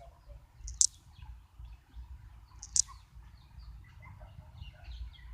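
Short high-pitched bird chirps repeating about every two seconds, with fainter twittering between them, over a low wind rumble.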